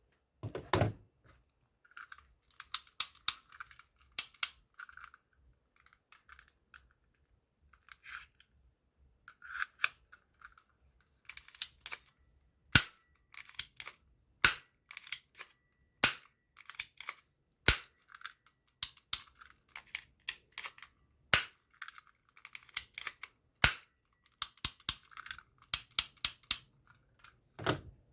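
Toy gun being handled and worked, with sharp plastic clicks and snaps. The clicks come in quick clusters near the start and end, with single louder snaps every second or two through the middle.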